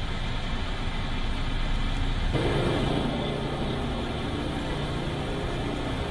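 Motor vehicle traffic noise, a steady rumble; the sound changes abruptly about two and a half seconds in.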